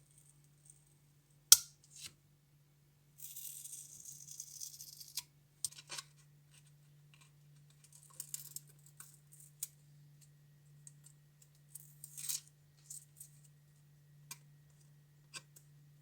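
Small workshop handling sounds on a diecast model bus: a sharp click, a scraping rustle lasting about two seconds, then scattered light clicks and taps, over a faint steady low hum.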